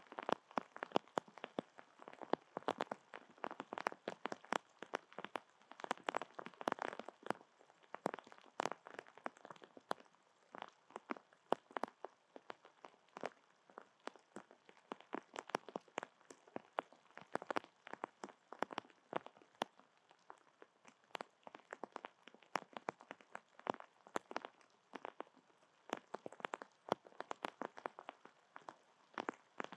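Rain falling, with drops hitting close by as a dense, irregular patter of sharp ticks.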